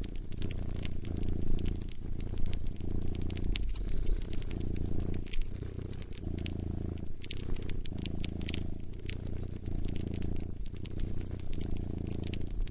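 A cat purring close up, a low rhythmic purr that swells and fades with each breath about every second and a half, over a wood fire crackling with frequent sharp pops.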